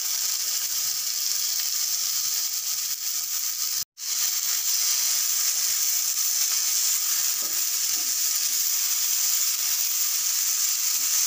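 Chopped tomatoes and onion masala frying in hot oil in a pan, a steady high sizzle, as they are stirred with a wooden spatula. The sound cuts out for an instant about four seconds in.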